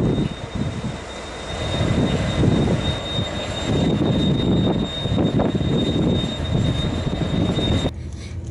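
Diesel-hauled passenger train running past a station platform: a loud, uneven engine rumble with a thin steady high-pitched whine above it. About eight seconds in it cuts suddenly to the quieter, steady hum heard inside a coach.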